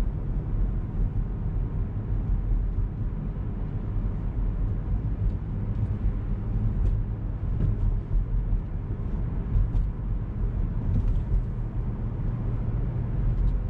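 Steady low rumble of a car driving, heard from inside the cabin: engine and tyre noise from the road.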